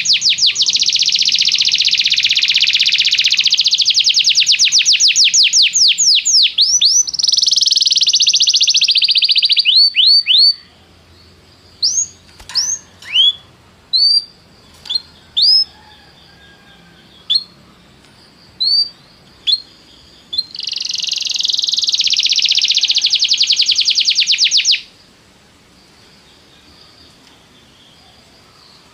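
Domestic canary singing: a long, rapid rolling trill for about ten seconds, then a string of separate short rising chirps, then another fast trill of about four seconds before the song stops.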